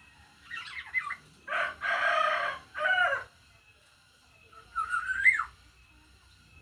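Black-naped oriole calling: a few short notes, then a loud, harsh, drawn-out call that falls in pitch at its end, and a short rising whistle a couple of seconds later.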